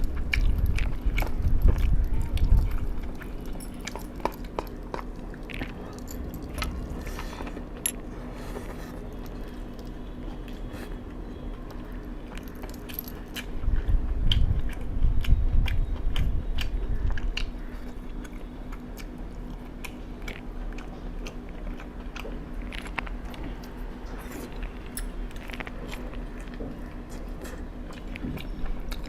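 A person chewing and biting food close to the microphone, with frequent crunches and wet mouth clicks. Louder low rumbling comes in at the start and again about halfway through, under a faint steady hum.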